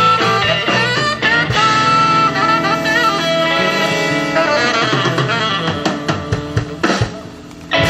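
A band playing a busy instrumental passage with held melodic notes over drums, thinning out and dropping in level for about the last second.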